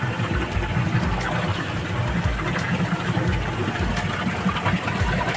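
Water running and splashing into live-fish tanks from the pipes above, over a low, uneven rumble.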